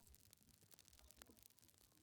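Near silence, with faint scattered crackles of a wood fire.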